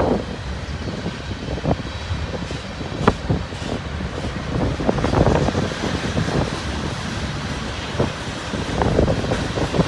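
Freight train cars rolling past on the rails: a steady low rumble of wheels on track, broken by a few short clanks and knocks.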